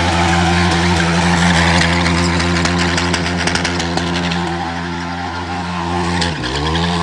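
Yamaha YFZ450 quad's single-cylinder four-stroke engine held high on the rev limiter during a burnout. About six seconds in, the revs drop sharply and climb straight back.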